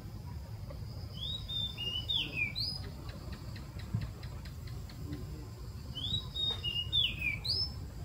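A songbird singing the same quick phrase twice, about five seconds apart: five or six short whistled notes, falling and rising, ending on an upward note. Under it runs the steady high drone of crickets.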